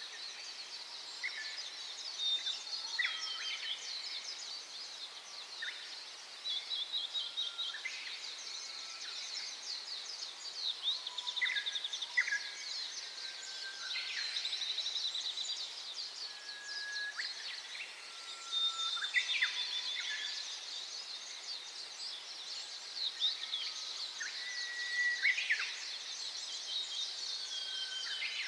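Small songbirds chirping and singing in a steady chorus of rapid high twittering, with short whistled notes and quick sliding calls from individual birds every few seconds.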